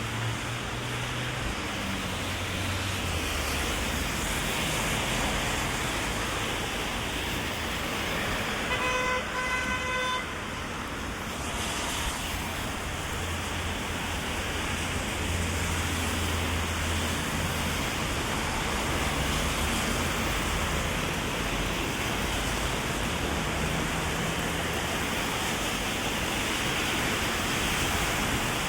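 Heavy rain falling steadily, with car traffic running on the wet road. A car horn honks twice in quick short toots about nine seconds in.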